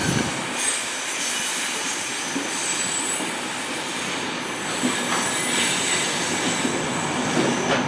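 A long freight train's wagons rolling steadily past on the track, with a high, thin squeal from the wheels.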